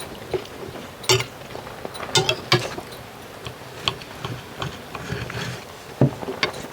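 Cutlery clinking against plates during a meal: irregular, light clicks and knocks.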